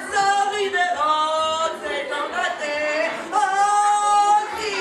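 A single voice singing long, wavering notes without words, amplified through a microphone, with a few slides in pitch.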